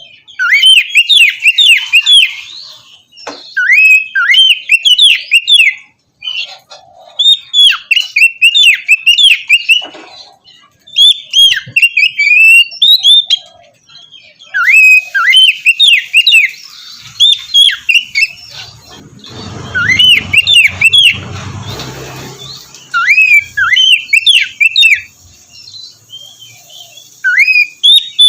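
Oriental magpie-robin (kacer) singing loud, varied whistled phrases in bursts of a second or two with short pauses between. About two-thirds of the way in, a rushing noise runs under the song for a few seconds.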